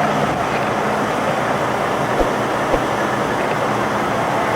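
Semi-truck diesel engine idling with a steady low hum and wide noise, with two light knocks a little past two seconds in.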